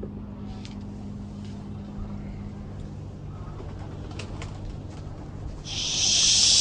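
Domestic pigeons cooing. A loud rushing noise lasting about a second comes near the end.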